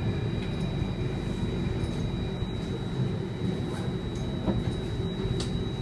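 Cabin noise of an Alstom Metropolis C830 metro train running through the tunnel: a steady low rumble, with a constant thin high whine and a few faint clicks.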